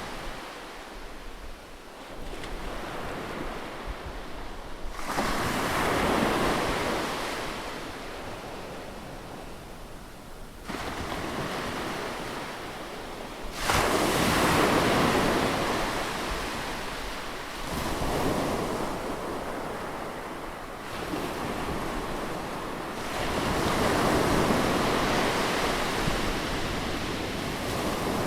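Ocean surf: waves break on a beach one after another, each swelling in with a rush and washing back out. The sharpest and loudest break comes about fourteen seconds in.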